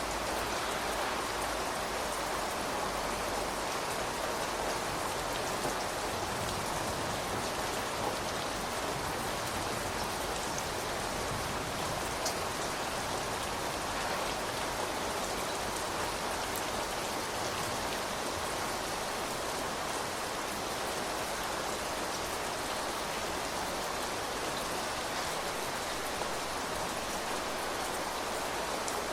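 Steady rain falling: an even hiss of many drops, with a few single drop ticks standing out here and there.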